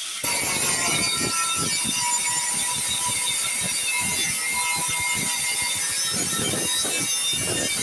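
Workshop tool noise: irregular scraping and rasping over a steady hiss.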